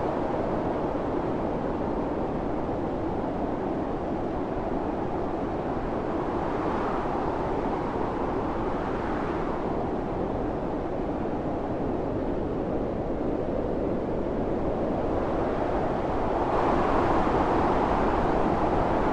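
Strong wind blowing steadily in a snowstorm, a continuous rushing that swells in gusts about seven seconds in and again near the end.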